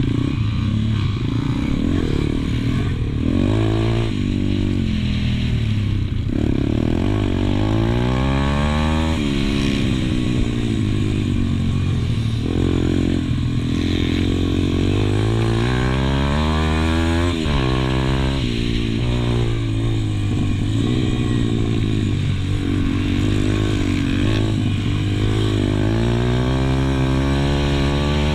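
Pit bike engine heard on board, revving hard up and down: the pitch climbs on the throttle and drops back again and again as the bike accelerates out of corners and shuts off into them.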